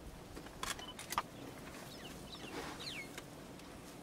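Quiet open-air background with a few sharp clicks about a second in, and a short whistled bird call gliding downward near the end.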